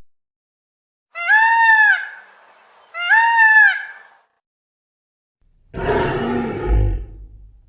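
Animal calls from a sound compilation: two identical high, arched calls, each about a second long, then a lower, rough roar near the end.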